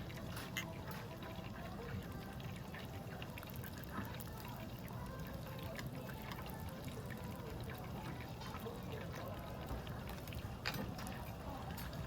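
Beef intestines (daechang and makchang) sizzling on a tabletop grill: a steady crackle with many small pops.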